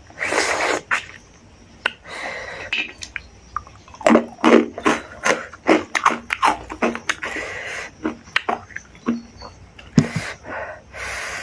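Close-up eating sounds: wet chewing and lip smacks as rice and pork curry are eaten by hand, in many short, irregular clicks and squelches. A few loud, noisy breaths come near the start and near the end.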